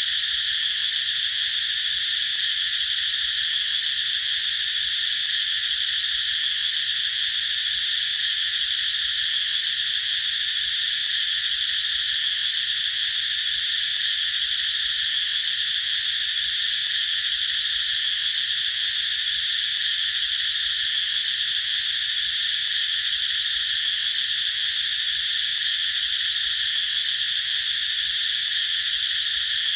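A chorus of cicadas singing in a steady, unbroken high-pitched drone.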